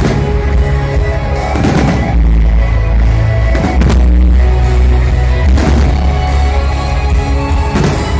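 Loud music with a heavy bass, with about half a dozen fireworks bursts banging over it, a second or two apart.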